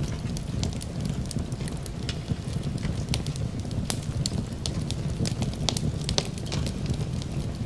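Fireplace wood fire crackling, with many irregular sharp pops and snaps over a steady low rumble.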